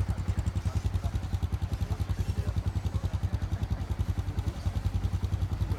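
An engine running at idle with a steady, rapid low throb.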